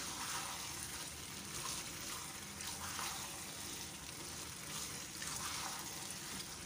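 Beef mince curry with potatoes and peas sizzling and bubbling in a pot on high heat, stirred with a silicone spatula: a soft, even hiss with faint scrapes from the stirring, as the sauce cooks down at the frying (bhuna) stage.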